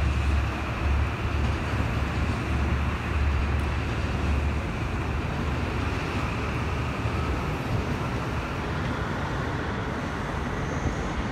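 Electric commuter train running along an elevated viaduct: a steady low rumble of wheels on the rails, heaviest in the first half and easing later, over street traffic noise.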